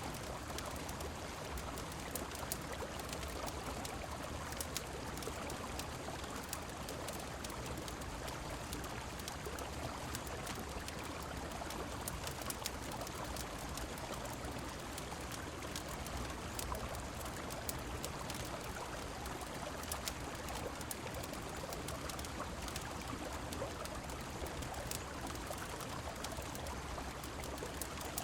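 Steady rush of a flowing river mixed with rain, with scattered faint sharp ticks throughout.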